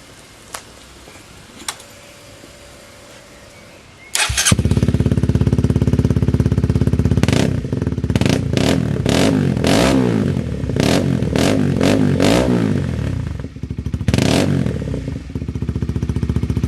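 Honda CBR125R's single-cylinder four-stroke engine starting about four seconds in after two faint clicks, then idling and revved in a quick series of short throttle blips.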